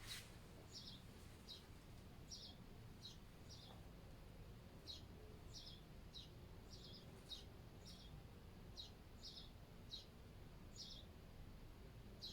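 Near silence with faint, short bird chirps repeating irregularly every half second to a second.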